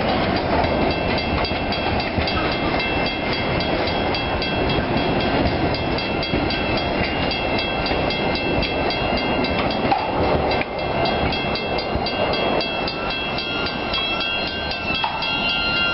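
A freight train of tank cars rolling past, a steady rumble of wheels on rail. Over it a level-crossing bell rings in quick, evenly spaced strokes, fading toward the end.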